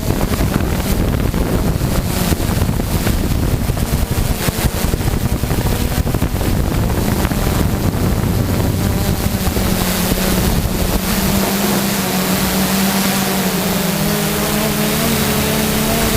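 Quadcopter drone's motors and propellers humming steadily, with wind buffeting the microphone. For several seconds in the middle the hum sinks under rough wind noise, then returns near the end with its pitch shifting slightly.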